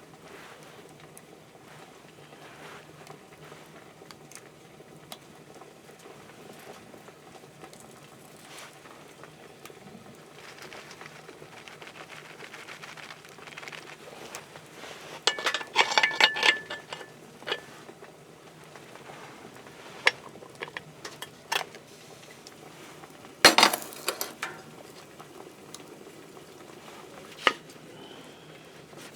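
Metal cookware and utensils clinking and clattering during camp cooking, over a faint steady background. A busy run of clinks comes about halfway through, and a single loud clank about two-thirds of the way in.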